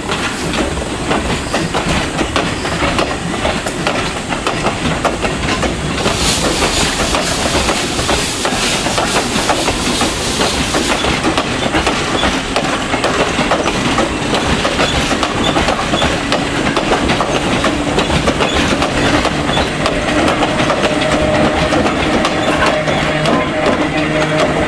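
Steam train hauled by the C56 44 locomotive pulling out, with a continuous clatter of wheels and carriages over the rails. A hiss of steam grows louder for several seconds in the first half.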